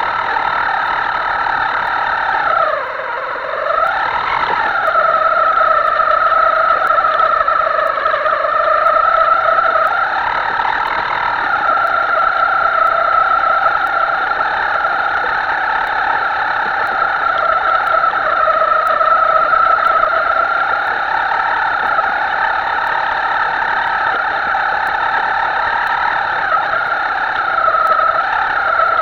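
Himoto radio-controlled model's motor running with a steady whine. About three seconds in, the pitch dips as the throttle eases off, then climbs back, and it holds high and steady after that.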